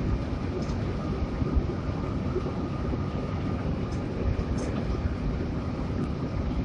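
Hino RK8 bus under way, heard from inside the passenger cabin: a steady low rumble of engine and road noise with faint rattles.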